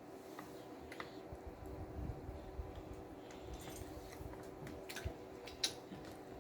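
Close-miked chewing of a BLT sandwich: soft, wet mouth sounds with scattered small clicks, the sharpest near the end.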